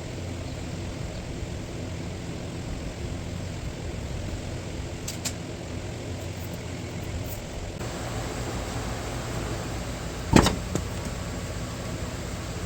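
A steady low mechanical hum, with a sharp knock of a hard object about ten seconds in and a smaller one just after.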